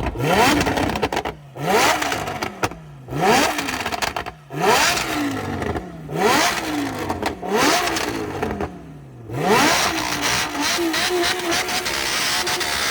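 A car engine revved hard again and again, each rev climbing sharply and dropping back, about every one to two seconds. Near the end it is held at a steady high rev.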